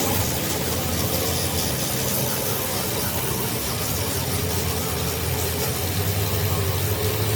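A machine running steadily: a low hum under an even noise.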